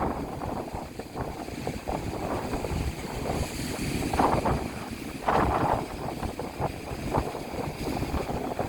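Strong wind buffeting the microphone with a constant rumble, over sea waves breaking and splashing, with the biggest surges about four and five seconds in.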